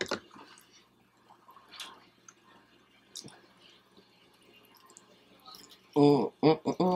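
Quiet chewing of a fried egg roll, with scattered faint crunches and mouth clicks. A voice speaks loudly about six seconds in.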